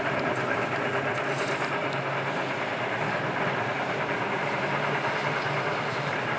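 Vintage Glasgow electric tram running along the track: a steady low hum under even running noise.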